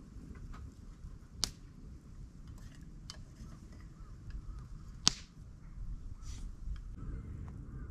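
Two sharp cracks, about a second and a half in and about five seconds in, the second the louder, with a few fainter clicks between them over a steady low rumble.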